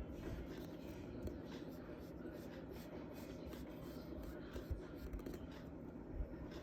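Charcoal scratching on paper in short, repeated strokes, over a faint low steady hum.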